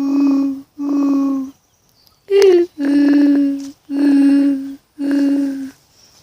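A person's hummed imitation of a mourning dove's normal cooing call. Two long, steady low coos end one call. After a short pause comes a second call: a higher note sliding down, then three more long low coos.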